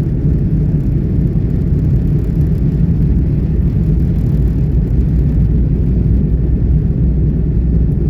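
Loud, steady low rumble of a vehicle in motion, unchanging throughout.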